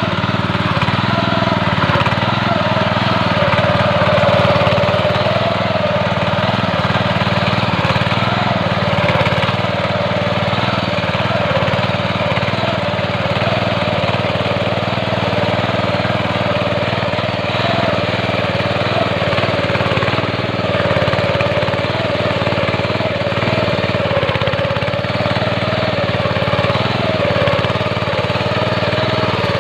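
Mini tractor's engine running steadily as it pulls a plow through the soil, its pitch wavering slightly.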